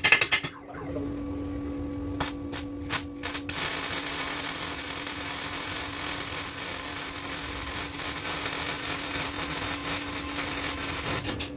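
Welder welding a car's exhaust pipe: a few short bursts, then one steady run of about eight seconds that stops near the end.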